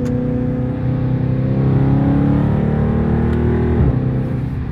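Car engine and exhaust heard from inside the cabin while driving, the engine note building for a couple of seconds and then dropping suddenly about four seconds in.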